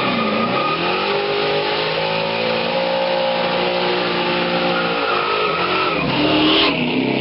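Hot rod's engine revved up and held at steady high revs over a hiss of spinning tyres during a burnout, then the revs drop off near the end.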